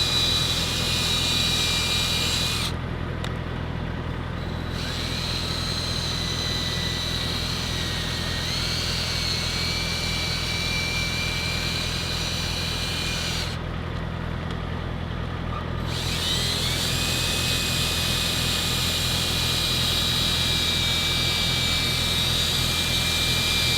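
Electric drill spinning a wet sanding pad against a plastic truck headlight lens: a steady whine in three long runs, stopping twice for about two seconds and rising in pitch each time it spins back up. A steady low hum runs underneath.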